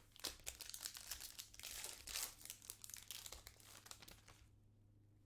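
Foil wrapper of a trading-card pack crinkling and tearing as it is opened by hand, a dense crackle that stops about four and a half seconds in.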